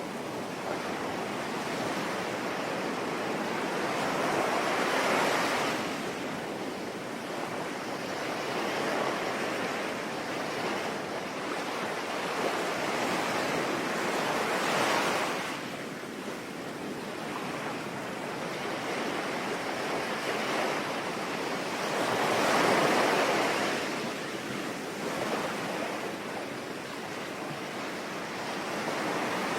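Sea waves washing in, in slow swells about every eight to ten seconds over a steady hiss that the title gives as rain.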